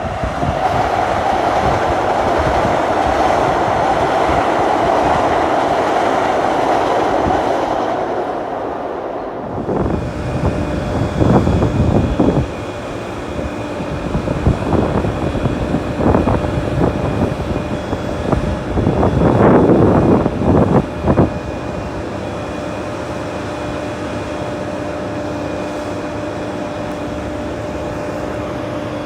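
A train running on the rails for about the first nine seconds, then a steadier hum with a few faint high steady tones, broken by several loud clanks and rattles around the middle.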